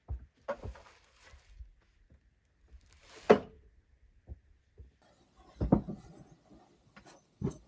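A handful of separate knocks and thumps, the loudest about three seconds in and another cluster near six seconds.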